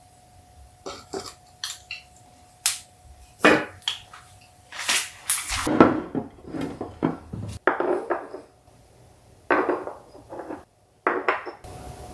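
Dishes, pans and utensils clattering: a string of irregular clinks and knocks.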